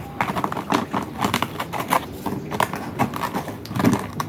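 A run of quick, irregular clicks and light knocks from handling things in the kitchen.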